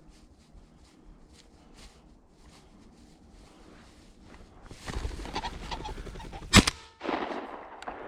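A single loud shotgun blast about six and a half seconds in, which is two hunters' shotguns going off at the same moment so that they sound as one shot. A loud rustling noise builds for about a second and a half before it.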